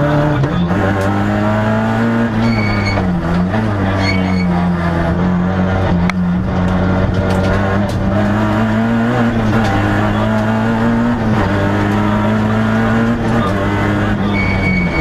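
Peugeot 106 XSi rally car's engine heard from inside the cabin, driven hard on a stage, its revs climbing and dropping again and again through the gears.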